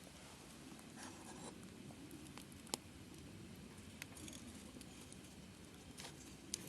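Wood campfire burning quietly: a faint hiss with a few sharp, scattered crackles, the loudest a little under three seconds in.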